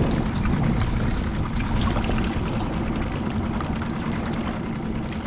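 Boat engine running steadily, with water lapping and splashing against a small skiff's hull.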